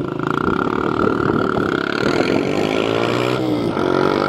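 Dirt bike engine revving as it rides, its pitch climbing and dipping several times, louder in the second half.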